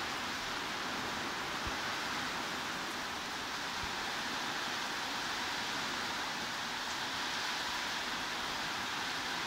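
Steady heavy rain, an even unbroken hiss that does not change in level.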